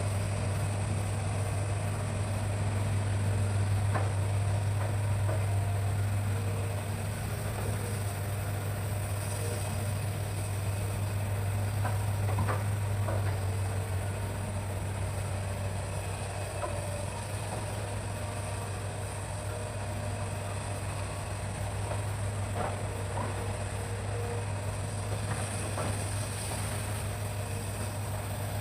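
Hitachi excavator's diesel engine running with a steady low hum, with a few faint knocks now and then.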